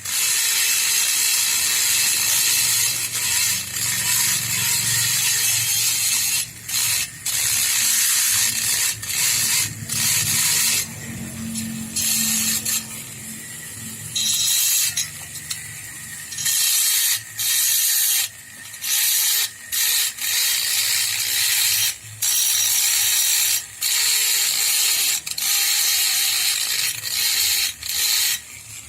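Handheld power tool grinding the metal of a Vespa engine block, a loud, mostly high-pitched noise that keeps stopping for a moment and starting again as the tool is lifted off and put back on the metal.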